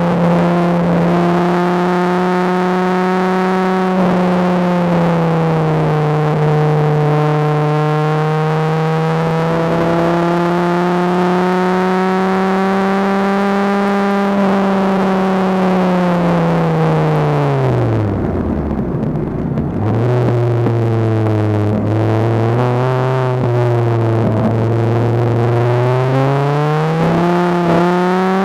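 Dodge Viper RT/10's 8.0-litre V10 heard from the open cockpit at track speed. It holds steady revs, then the engine note falls steeply about two-thirds through as the car slows. It pulls again from low revs and rises near the end.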